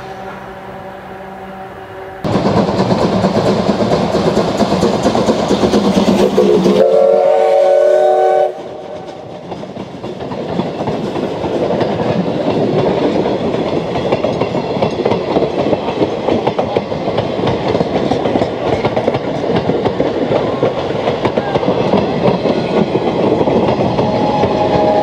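A passenger train passing close by. The sound jumps loud about two seconds in, and a multi-tone train whistle blows for about two seconds near the middle. Then the coaches roll past with a steady clickety-clack of wheels over the rail joints.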